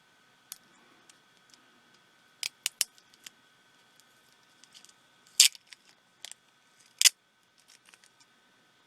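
Small plastic parts of a pico projector's optical engine clicking and snapping as they are handled and pried apart: a quick run of three clicks about two and a half seconds in, then two sharper snaps near the middle and about two seconds later, with lighter ticks between.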